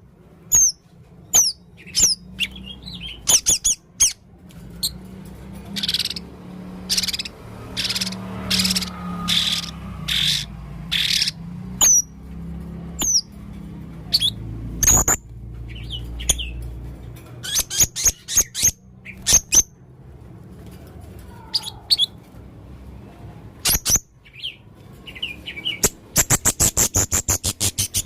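A male blue-crowned hanging parrot calls with sharp, high-pitched squeaky chirps, a run of buzzy notes about twice a second, and a fast trill near the end.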